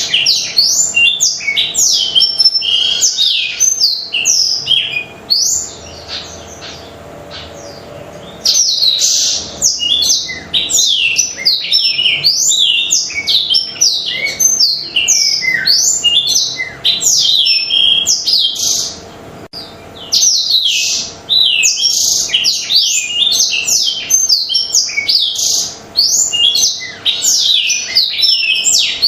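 Black-throated canary (blackthroat) singing a long, fast run of high chirps and sweeping whistles, pausing for about three seconds about five seconds in and briefly again about two-thirds of the way through.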